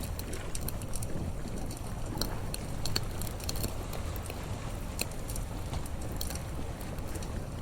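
Campfire crackling: irregular sharp pops and snaps, a few per second, over a steady low rumble.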